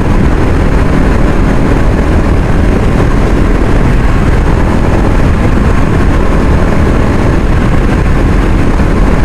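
Motorcycle ridden fast at full throttle on an open road, with a steady rush of wind over the microphone along with the engine.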